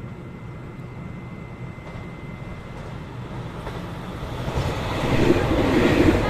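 A train approaching: a low rumble grows steadily louder from about four seconds in, with a rhythmic low throbbing building near the end as it draws close.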